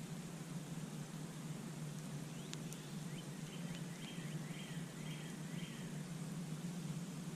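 Campfire crackling, with a few sharp pops a couple of seconds in over a steady low rumble. In the middle a bird gives a short series of about five repeated, quickly gliding call notes.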